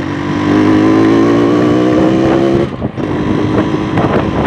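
Yamaha RX-King two-stroke motorcycle accelerating, its engine pitch climbing for about two and a half seconds, dropping briefly at a gear change, then climbing again.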